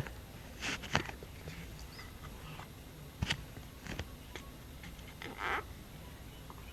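Scattered small clicks and short rustles of hands digging modeling dough out of a plastic container.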